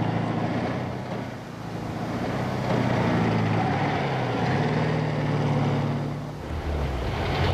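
Volkswagen Beetle's air-cooled flat-four engine running as the car drives along the road, its note swelling and fading as it passes.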